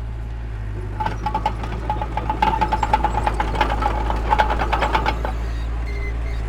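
Heavy diesel earthmoving machinery running with a steady low drone, and a rapid run of metallic clanking and knocking from about a second in until about five seconds in.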